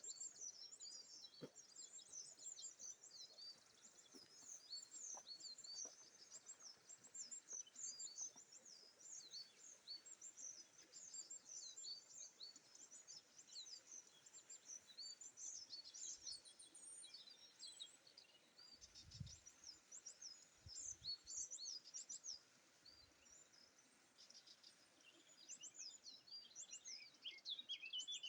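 Faint chorus of small songbirds chirping and twittering continuously, with a few soft low thuds about two-thirds of the way through.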